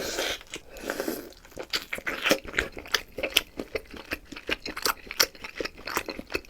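Close-miked chewing of a firm hotpot beef ball: a quick, irregular run of mouth clicks and smacks.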